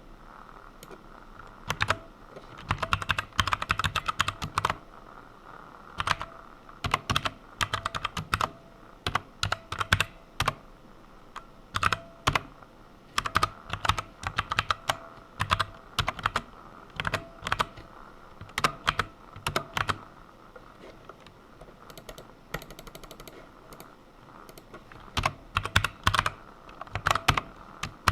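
Typing on a computer keyboard: quick bursts of keystrokes separated by short pauses, with a sparser stretch of only a few keys near the end.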